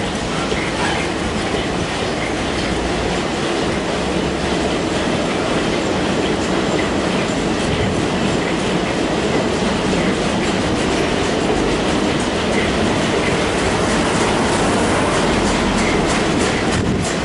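Freight train rolling past, its wagon wheels clattering steadily over the rail joints.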